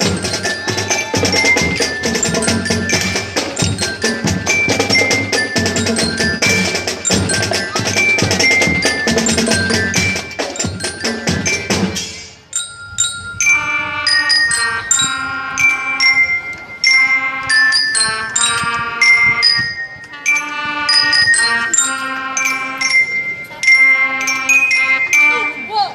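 Marching band playing: dense full-ensemble music with many percussion strikes, then about halfway through the full band drops out and mallet percussion (glockenspiel and marimba) carries on alone with a run of ringing melodic notes.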